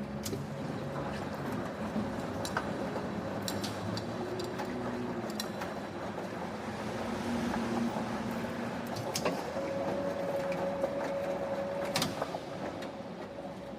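Factory machinery running: a steady mechanical din with a low hum, scattered sharp metallic clicks and clanks, and a steady whine that holds for a few seconds past the middle.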